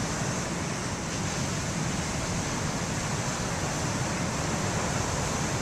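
Steady rush of heavy surf and strong wind, even throughout, with no single wave crash standing out.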